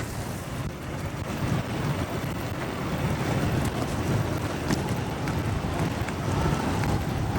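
Motorcycle engine running steadily while riding in city traffic, with wind noise on the microphone.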